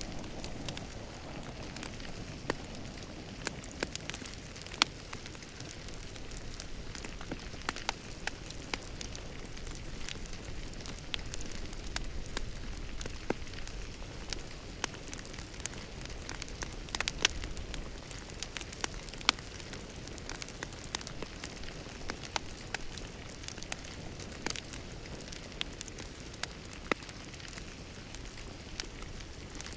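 Wood fire crackling in a fireplace: a steady hiss of flames with frequent sharp, irregular pops and snaps.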